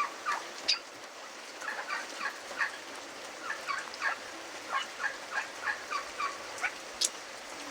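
Pheasants giving runs of short, quick clucking calls, several a second, in bursts with brief pauses, over a steady patter of rain. A couple of sharp taps stand out, one near the start and one near the end.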